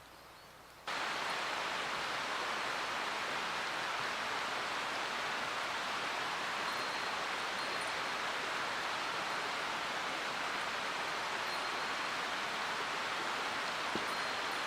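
Steady rushing of a mountain stream, cutting in suddenly about a second in and running evenly.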